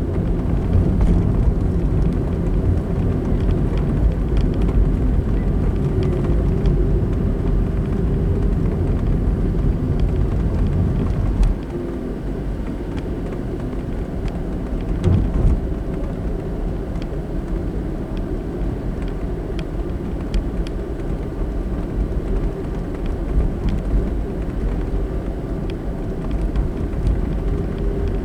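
Car driving, with a steady low rumble of road and engine noise as picked up by a dashcam inside the cabin. The rumble drops a little about a third of the way through, with a brief low swell soon after.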